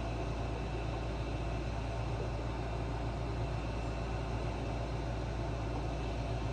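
A steady low hum with an even hiss over it, unchanging and without distinct knocks or clicks.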